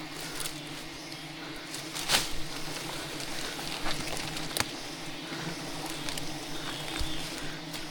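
A swarm of giant honey bees (Apis dorsata) buzzing steadily around a hive under attack, a constant low drone, with scattered sharp clicks and rustles through it.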